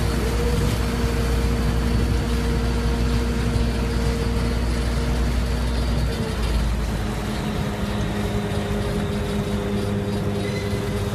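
Boat engine running with a steady drone; its pitch drops slightly about six seconds in.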